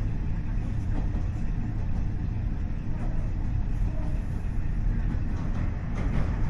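Cabin running sound of a KiHa 40-series diesel railcar (KiHa 40-524, DMF15HSA diesel engine): a steady low rumble of engine and wheels on the rails. About five and a half seconds in, a run of short rattling clicks joins.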